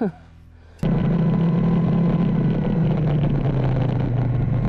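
A motor vehicle engine running steadily with road noise. It cuts in abruptly just under a second in, after a faint hum.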